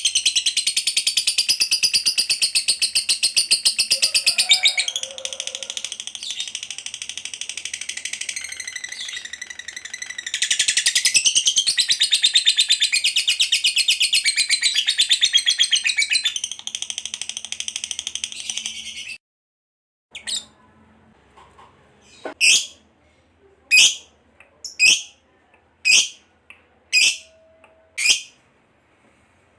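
Lovebird chattering in a long, rapid, high-pitched trill (the prized 'ngekek panjang') for about nineteen seconds, which then cuts off abruptly. It is followed by a series of separate short, shrill calls about one a second.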